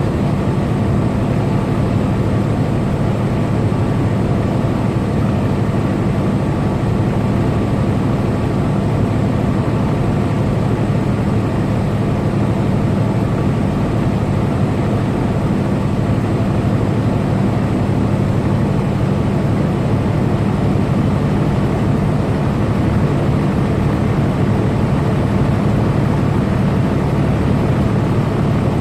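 Semi-truck engine droning steadily at cruising speed, with continuous road and tyre noise; no change in pitch or level.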